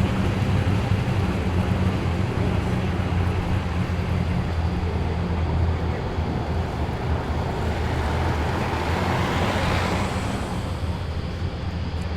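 Muscle car engine running at low speed as it rolls in, a steady low note, with a louder rush of noise swelling about eight to ten seconds in.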